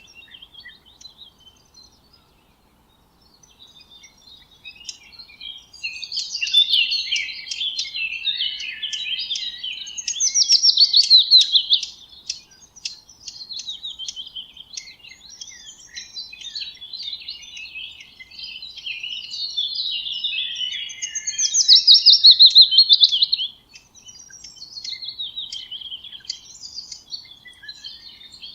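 Songbirds singing and chirping in a mix of high calls and fast trills, with two loud rapid trilling phrases, one about ten seconds in and one about twenty-one seconds in. A brief hush comes about two seconds in.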